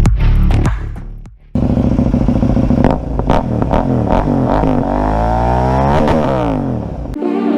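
Electronic music with a beat fades out. Then a BMW G 310 GS's 313 cc single-cylinder engine runs and revs, its pitch climbing steadily and dropping sharply about six seconds in. Organ music cuts in near the end.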